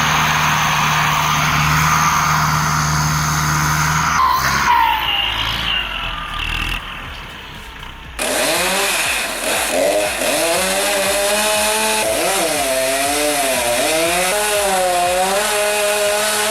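Loud steady machine noise for the first few seconds, then, after a quieter stretch, a chainsaw running, its pitch rising and falling repeatedly as the throttle works.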